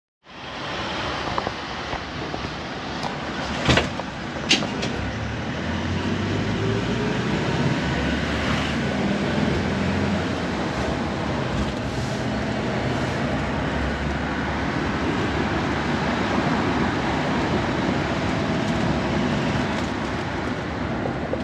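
Steady road-vehicle rumble, with two sharp clicks about four seconds in.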